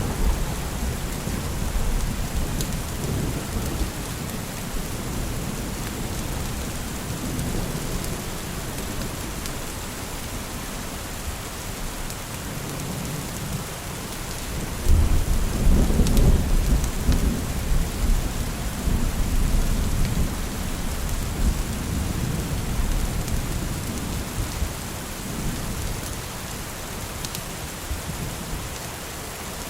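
Steady rain falling, with a low rolling rumble of thunder that swells about halfway through and slowly dies away.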